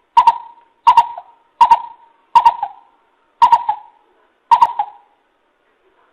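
Coucal calling: a series of six evenly pitched booming notes, each about a second apart and spacing out slightly toward the end, then stopping.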